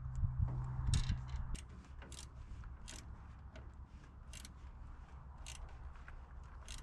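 Socket wrench ratcheting in short strokes as the 10 mm battery terminal bolt is tightened: a string of sharp, irregular clicks. A low hum underneath cuts off about one and a half seconds in.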